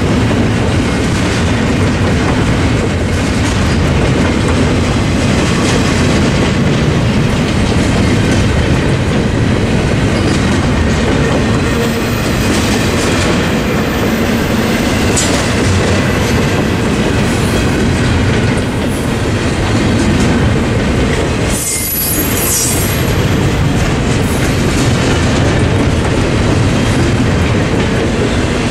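Double-stack intermodal freight train's well cars rolling past at speed: a loud, steady rumble of steel wheels on rail.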